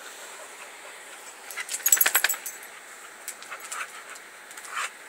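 Dogs moving about with their metal collar tags jingling and clinking. The clinking comes as a short, loud flurry about two seconds in, then a few softer clinks.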